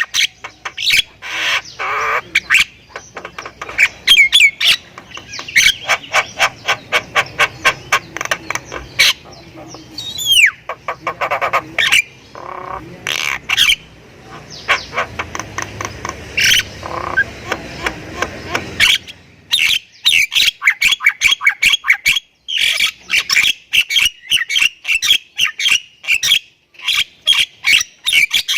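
Jalak kebo (Thai myna) singing a long, loud stream of harsh chattering notes and sharp clicks, with a falling whistle about ten seconds in. The last third turns to rapid, evenly repeated chatter.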